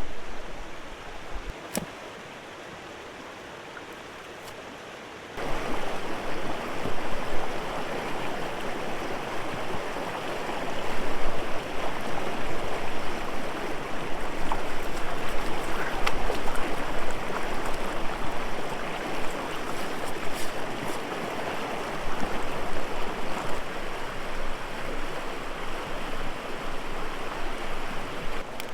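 River water running with a steady rushing noise that gets suddenly louder about five seconds in.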